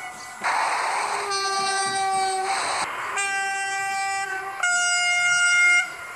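Train horn sounding three sustained chord-like blasts, the first starting with a rush of air and the last higher-pitched and loudest.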